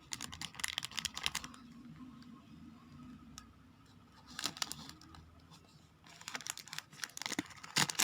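Plastic toy wrapping crinkling and crackling in bursts as it is unwrapped by hand, with a quiet pause in the middle.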